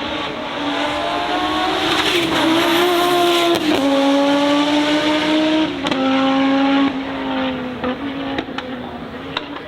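Race car engine accelerating hard through the gears. Its pitch climbs and then drops sharply at each of about three upshifts, and the engine is loudest through the middle as the car passes.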